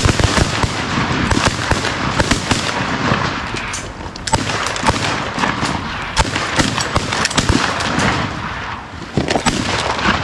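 Shotguns of several waterfowl hunters firing at geese together: a dense volley of overlapping shots in quick succession, thinning a little near the end.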